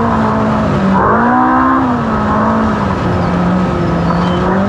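Off-road race car's engine running hard under load, its pitch rising about a second in and then falling again with the throttle.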